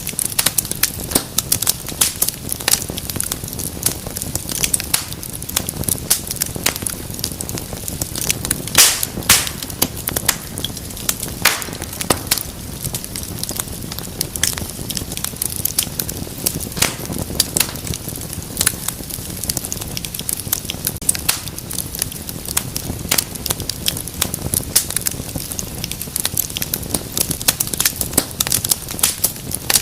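Wood fire in a fireplace crackling, with dense irregular pops and snaps over a low steady rumble of burning; a few louder pops stand out about nine and eleven seconds in.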